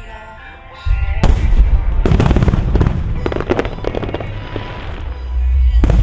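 Aerial fireworks bursting over music: booming starts about a second in, followed by a dense run of bangs and crackling reports, then one sharp bang near the end.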